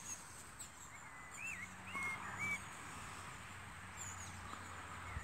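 Birds calling faintly in the background: a run of short whistled chirps that rise and fall, clustered about one to two and a half seconds in.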